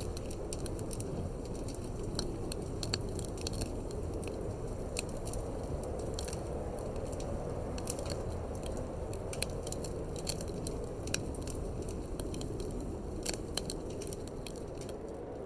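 Wood fire in a fireplace crackling, with irregular sharp pops and snaps over a steady low rushing of wind.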